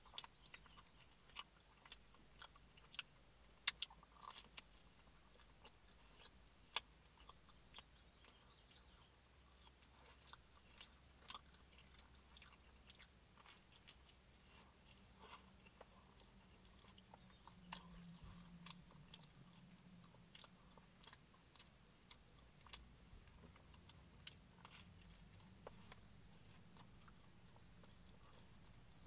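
Close-up chewing and biting of a slice of pepperoni pizza, with many scattered sharp mouth clicks, the loudest about four and seven seconds in. A faint low hum runs underneath.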